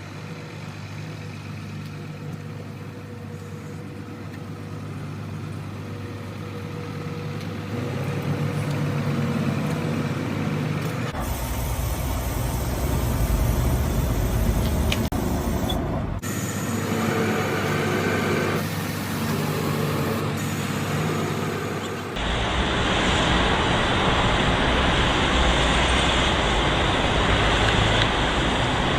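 Motor vehicles running with road and traffic noise, changing abruptly several times.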